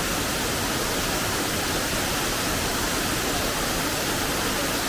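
Waterfall water rushing, a steady, even roar of falling water with no change.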